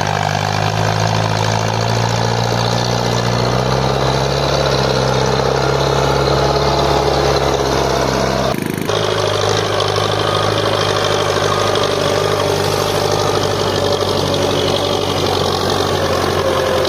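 Belarus tractor's diesel engine running steadily, pulling a loaded sugarcane trolley, with a brief dropout and change in tone about eight and a half seconds in.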